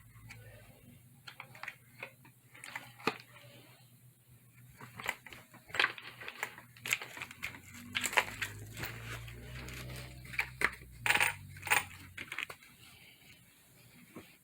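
Scattered sharp clicks and small clattering knocks as an Arrma Typhon 6S RC car is handled and wiped dry, with a low steady hum underneath that stops near the end.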